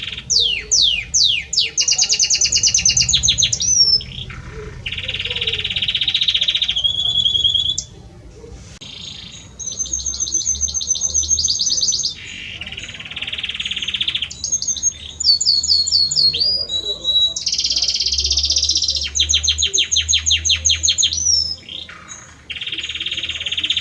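Male domestic canary (Belgian canary) singing a long, unbroken song to a female: rapid trills of repeated notes, falling whistled sweeps, buzzy rolls and clear whistles, changing phrase every few seconds.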